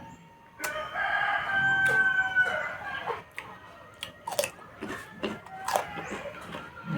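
A rooster crows once, one long call of about two seconds, starting under a second in. After it come scattered wet clicks and smacks of chewing and biting.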